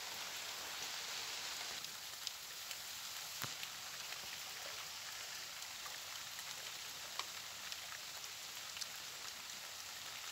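Steady rain falling on vegetation and wet ground: an even hiss with scattered sharp ticks of single drops.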